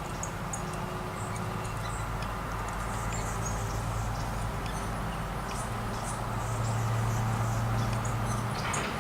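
Small songbirds at a feeder giving many short, high chirps, scattered throughout, over a steady low hum that swells somewhat in the second half.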